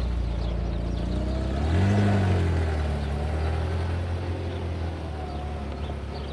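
Ferrari Mondial T Cabriolet's V8 engine and exhaust as the car drives off. It revs up briefly about two seconds in, then settles back and runs steadily, growing a little quieter as it pulls away.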